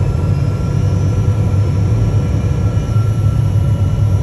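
Steady cabin noise inside a Learjet 75 on approach: a low, even rumble of airflow and engines with a faint steady whine above it.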